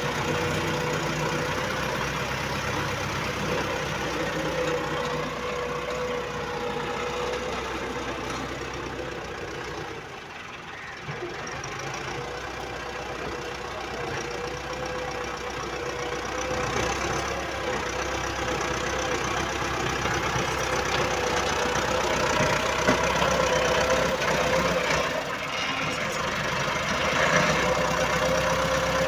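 Diesel tractor engine running steadily. It drops in loudness briefly about a third of the way in and grows louder toward the end.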